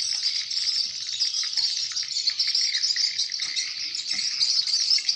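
Swiftlets twittering, a dense, continuous stream of high chirps with no pauses: a swiftlet lure-call (suara panggil) recording used to draw swiftlets into a bird house.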